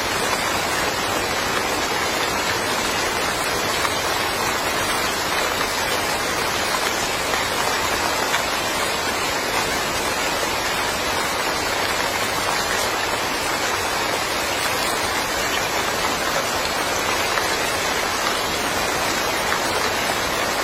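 Steady rain falling, a dense even hiss of many drops with no letting up or change.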